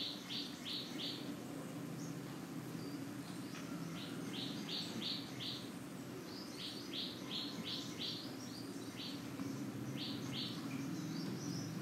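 A small bird chirping in quick runs of three to five short, high chirps, repeated several times, over a faint steady low hum.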